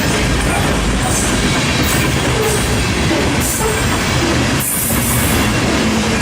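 Railcars of a passing train rolling by close, steel wheels running on the rails in a loud, steady rumble.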